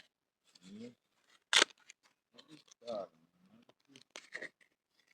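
Scattered handling clicks and rustles, with one sharp, loud snap about a second and a half in, and brief muttering.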